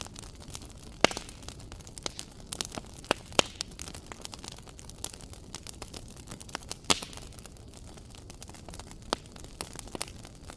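Wood fire crackling in a fireplace: irregular sharp snaps and pops over a low, steady hiss of the flames, with a few louder pops about a second in, near three and a half seconds and near seven seconds.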